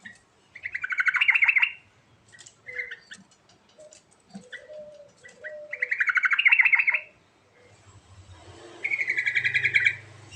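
A yellow-vented bulbul (trucukan) in full song: three loud, rapid bubbling phrases, with softer, lower notes in between.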